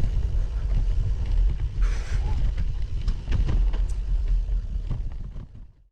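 Wind rumble on an action camera's microphone, with scattered crunches and clicks of gravel bike tyres on gravel; it fades out near the end.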